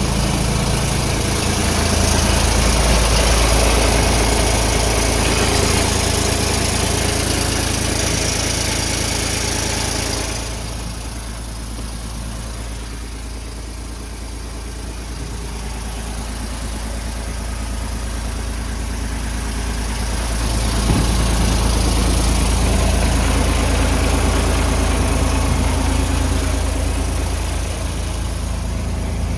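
Mercedes-Benz Actros 1843 truck's diesel engine idling steadily. It goes quieter about a third of the way in and comes back up about two-thirds in, with one short click as it returns.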